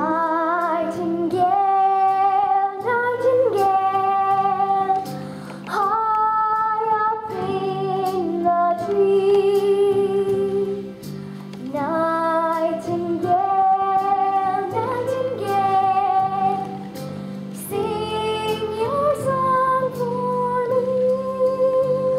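A child's solo singing voice holding long, slow notes that slide from one pitch to the next, over a steady instrumental accompaniment.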